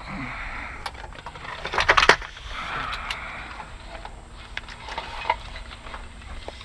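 Salvaged items being handled and set into a truck bed: scattered clattering knocks and rattles, with a louder cluster of knocks about two seconds in.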